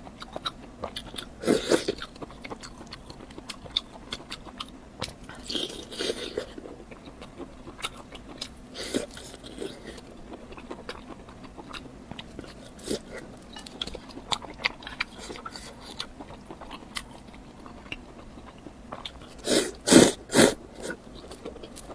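Close-miked eating: a person biting and chewing food with wet mouth clicks and occasional crunches, the loudest bites coming in a quick cluster near the end.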